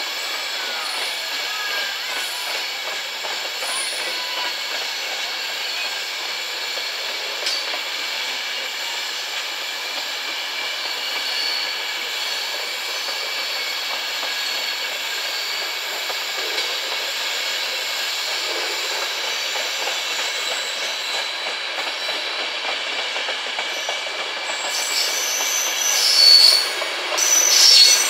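Train of passenger coaches rolling past on the rails at low speed, with a steady wheel clatter and a faint metallic squeal of wheels on rail. Near the end, two loud, high-pitched squeals rise as the last coach and the diesel locomotive come by.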